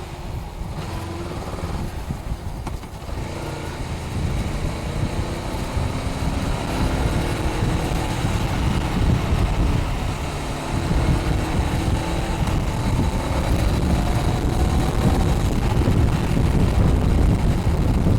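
Honda Rebel 500's parallel-twin engine through its stock exhaust, the engine note climbing as the motorcycle accelerates. Heavy wind buffeting on the microphone runs underneath and grows louder as speed builds.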